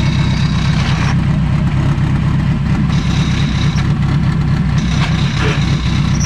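Honda K-series engine idling steadily, a rough, dense running sound, in a Civic whose clutch disc has stripped splines; this is offered as the sound of the failed clutch, so bad the car will barely go into gear.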